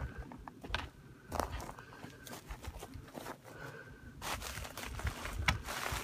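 A bird giving short, even-pitched whistled notes, repeated every second or so, among rustling and crunching noises.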